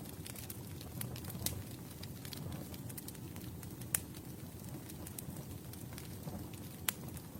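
Campfire burning: a steady low rustle of flames with frequent small crackles of burning wood and a few louder sharp pops, one about four seconds in and another near the end.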